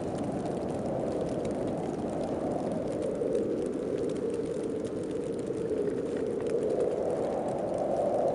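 Wind of a heavy snowstorm blowing steadily, rising and falling gently in strength and pitch.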